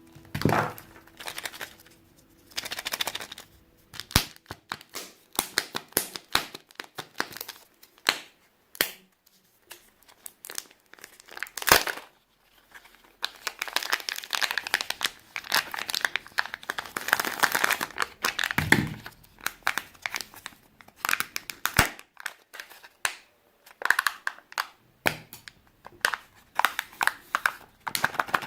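Close-up crinkling and rustling handling noise in irregular bursts, scattered with sharp clicks and taps.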